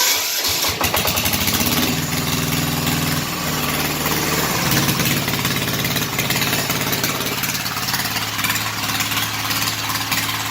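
Sears diesel engine starting cold after sitting for a week or two. It catches abruptly at the very start, and its speed wavers over the first few seconds before settling into a steady idle.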